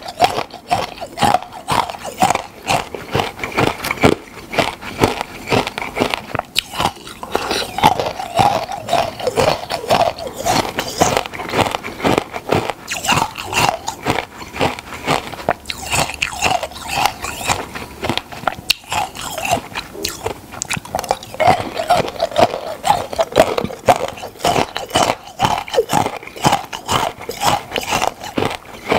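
Close-miked crunchy biting and chewing of icicle ice, a dense run of sharp cracks and crunches with short pauses between bites.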